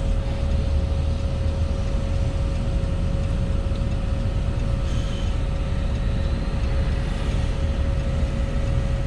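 Steady low rumble of a road vehicle running, with a constant thin whine over it.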